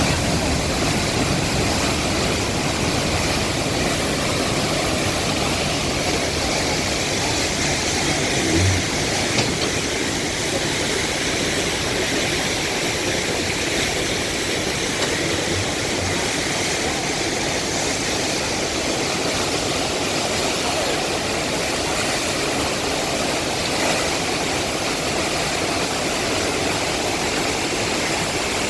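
The Rhine Falls, a large river waterfall, giving a steady, unbroken rush of falling water, with a brief low thump about nine seconds in.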